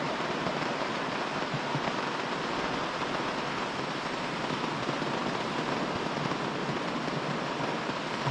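Steady rain, an even hiss with no separate drops, knocks or changes.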